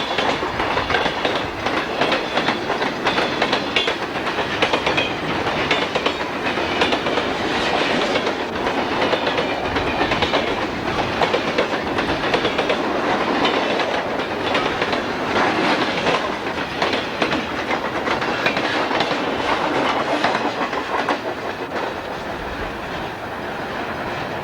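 Soo Line freight train rolling past, its cars' wheels clicking steadily over the rail joints.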